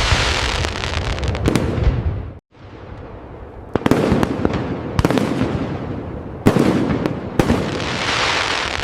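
Fireworks display: a dense, loud burst cuts off suddenly about two seconds in. Then comes a run of separate sharp bangs, about six over the next four seconds, each trailing off. Near the end a dense crackling, hissing swell builds again.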